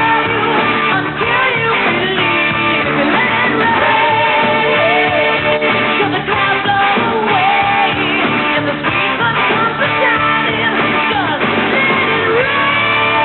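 Hard rock song with a male lead vocal singing over electric guitar and drums, heard through the muffled sound of an old VHS recording.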